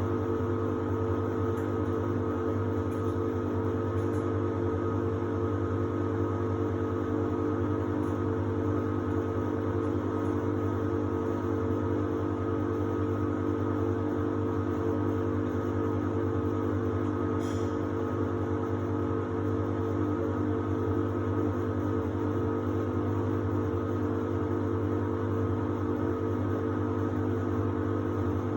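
Samsung WD70T4047CE washer-dryer running with a steady motor hum of several fixed tones, most likely its drying stage. A faint tick comes about two-thirds of the way through.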